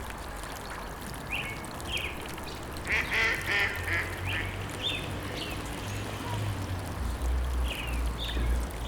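Birds calling in short, separate calls, with a quick cluster of several about three seconds in and a few more near the end, over a steady low rumble.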